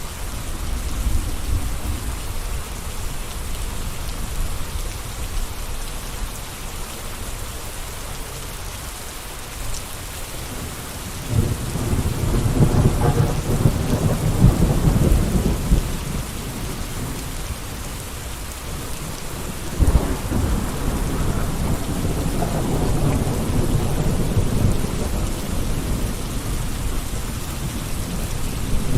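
Steady rain falling and pattering on surfaces. Twice, about a third of the way in and again past the middle, a deep low rumble swells up for several seconds over the rain, the second starting abruptly.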